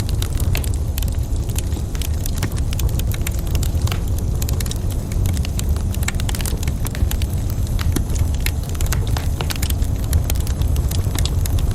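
Wood fire burning in a fireplace: a steady low rumble of flames with many small, irregular crackles and pops of burning logs.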